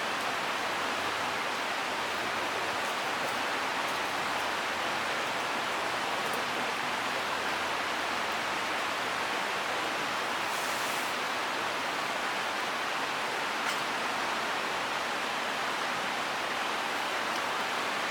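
Steady rushing of flowing stream water, even and unbroken, with a few faint ticks over it.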